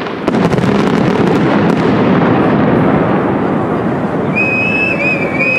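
Fireworks finale barrage: a dense, continuous crackling and rumbling of many shells and ground effects going off together. Near the end a long shrill whistle sets in over it.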